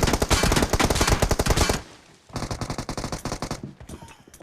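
Rapid automatic gunfire from a video-game shooter: a long burst of fast shots, a half-second pause a little under two seconds in, then another long burst and a few scattered shots near the end.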